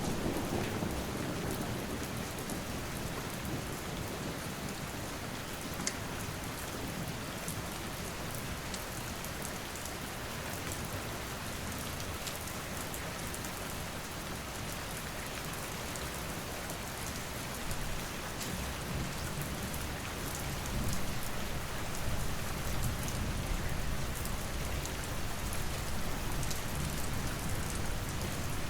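Steady heavy rain falling on surfaces, with a low rumble of thunder dying away in the first second. Scattered faint sharp crackles sound through the rain.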